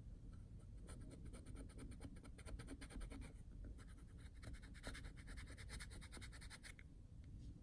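Scraper drawn in quick, faint strokes across soft furniture filler on a wood desk's finish, scraping off the excess filler from a filled scratch; the scraping stops near the end.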